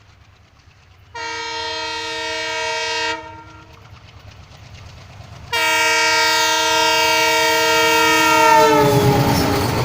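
WDM3A diesel locomotive's horn sounding two long blasts, the second longer, dropping in pitch near the end as the locomotive passes. The rumble of the train on the rails swells up under it at the close.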